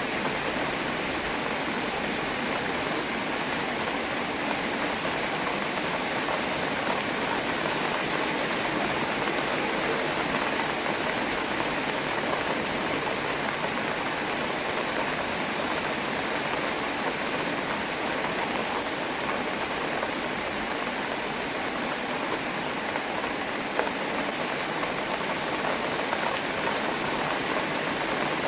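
Steady rain falling, a dense even hiss of drops on the pond's surface and the ground around it, recorded on a phone microphone.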